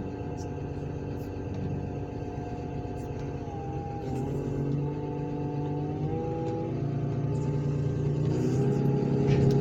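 Diesel engine of heavy scrapyard equipment running steadily. Its pitch rises about three and a half seconds in, drops back near seven seconds, and rises again near the end as it is worked.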